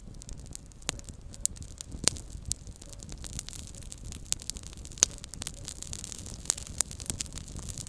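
Small campfire crackling: irregular sharp pops and snaps of burning wood over a low, steady rumble of flame, with the loudest pop about five seconds in.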